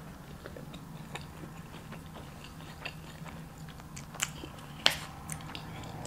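Close-miked chewing of fried General Tso's chicken, with soft wet mouth clicks and light lip smacking. A few sharper clicks come about four and five seconds in, chopsticks knocking against the plastic takeout bowl.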